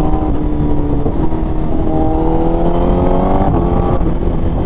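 Honda CBR1000RR-R Fireblade SP inline-four under acceleration through an SC Project exhaust, its revs climbing steadily. About three and a half seconds in there is a brief cut and drop in pitch, as at a quickshifter upshift. Heavy wind rush on the microphone lies under the engine.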